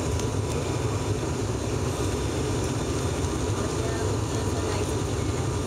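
Cabin noise of an ATR-72-600 turboprop in flight: the steady drone of its engines and propellers, heaviest in the low end, with a few faint steady tones above it.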